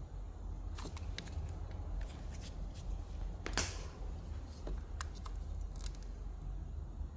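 A few light clicks and one short scrape about three and a half seconds in, from handling small parts or tools, over a low steady hum.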